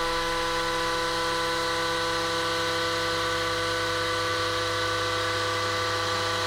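HAAS Super Mini Mill cutting aluminium, its spindle and cutter giving a steady multi-tone whine over a hiss.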